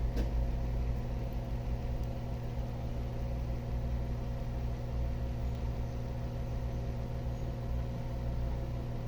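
A steady, unchanging low hum with a faint buzz, from some electrical or motor source running.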